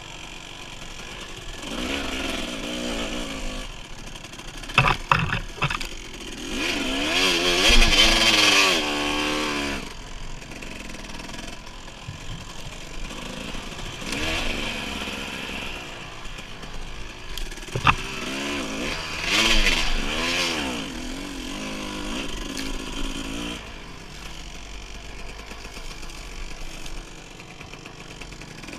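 Dirt bike engine revving up and down in repeated surges while riding a trail, its pitch rising and falling with each burst of throttle. A few sharp knocks cut through partway in.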